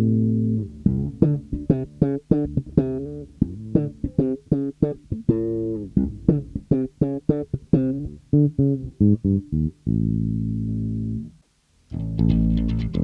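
Harley Benton MB-4 electric bass guitar played solo: a fast run of single plucked notes, then a longer held low note that stops about eleven seconds in. After a brief gap, new ringing notes start near the end.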